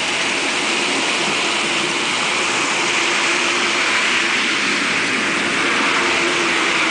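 Heavy rain pouring down, a steady dense hiss, with a faint steady hum underneath.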